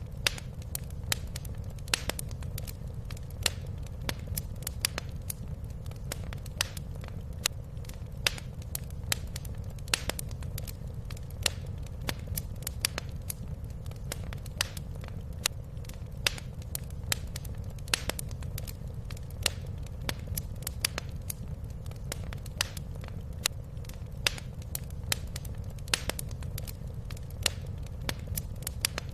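Wood fire crackling in a fireplace: sharp, irregular pops and snaps, several a second, over a steady low rumble.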